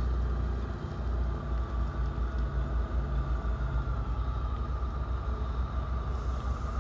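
A vehicle engine running, heard as a deep, uneven rumble.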